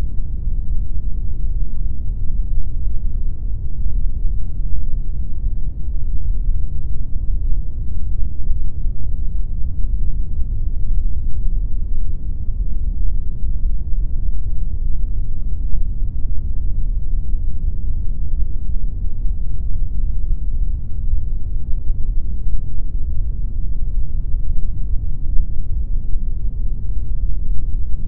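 Continuous synthetic noise, the video's pink noise, running steady and unchanging. It is weighted heavily toward the bass, a deep even rumble-hiss with little high treble.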